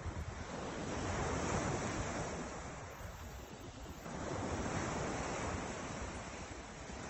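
Ocean surf: waves washing in, swelling in loudness about a second in and again about four seconds in, with wind rumbling on the microphone.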